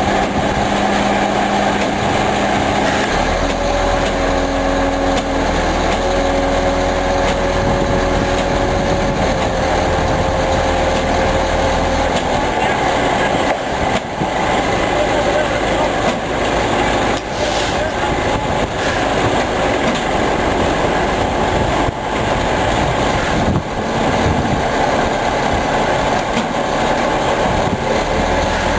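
Heavy truck's diesel engine running steadily, with a held whine and deep hum between about 3 and 12 seconds in.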